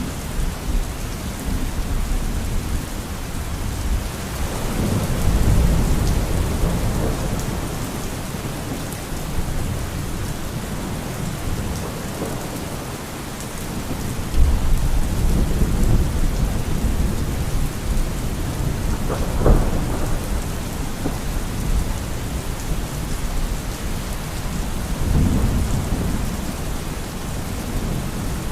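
Thunderstorm: steady heavy rain hissing, with rolling thunder rumbling in several waves and a sharper thunderclap about two-thirds of the way through.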